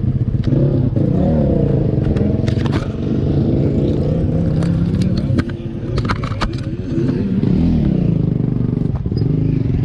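Motocross bike engine revving up and down under changing throttle, picked up by a GoPro on the bike, with the throttle dropping off briefly about five and a half seconds in. Sharp clattering knocks come in short clusters across the middle stretch.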